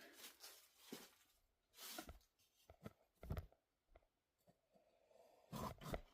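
Faint, scattered crunching and rustling footsteps in dry leaves, a few separate steps over near silence.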